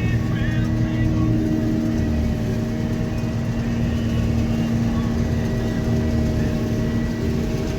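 Combine harvester running steadily while harvesting soybeans: a constant engine and machinery drone with a steady hum over a low rumble.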